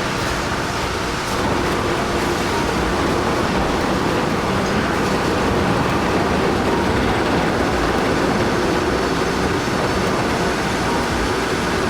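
Heavy machinery running: a steady, loud, rumbling mechanical noise with a faint engine hum underneath.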